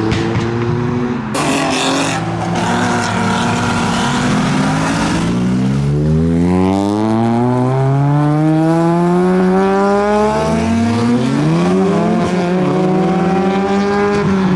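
A modified car accelerating hard away from a standstill: its engine note climbs steadily, drops at a gear change about eleven seconds in, then climbs again. Before that, for a few seconds from about a second in, there is a loud, harsh rush of noise.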